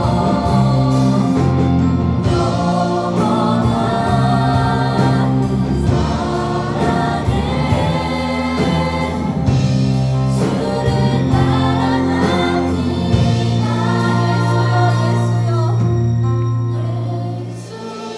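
Church choir singing a gospel praise song over band accompaniment, with held bass notes and a steady beat; the music dies down near the end.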